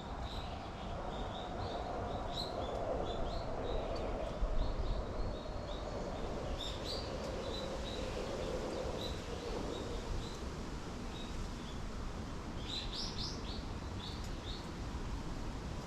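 Small birds chirping: short, high chirps scattered throughout, with a quick run of them a little before the end, over a steady low background hum.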